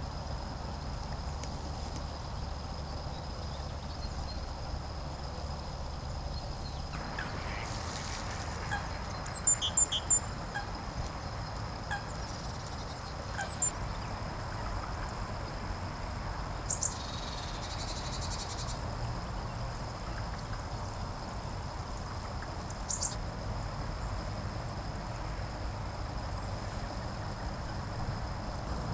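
Wild birds giving a few short, sharp calls over a low outdoor rumble, loudest in a quick cluster about ten seconds in. A thin steady high whine runs underneath.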